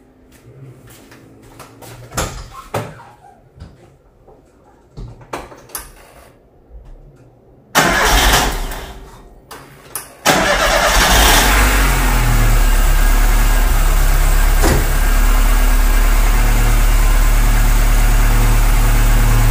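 A few light knocks, a loud burst about eight seconds in, then a Chevrolet Corsa 1.6 8-valve four-cylinder engine starts about ten seconds in, flares briefly and settles into a steady idle. The engine has a newly fitted fuel pressure regulator, replaced to cure excessive fuel consumption.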